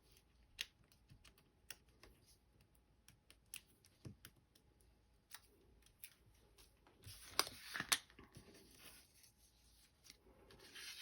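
Hands handling paper pieces and foam adhesive dimensionals on a craft table: scattered light clicks and taps, with a louder papery crackle about seven to eight seconds in.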